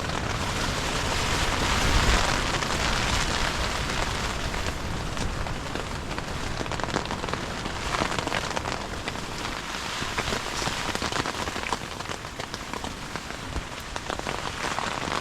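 Heavy wind-driven rain pelting a tent, a dense hiss dotted with drop ticks that swells about two seconds in.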